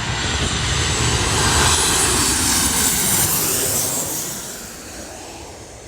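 Jet airliner passing low overhead: its engines swell to their loudest about two seconds in, with a high whine over the roar, then fade away.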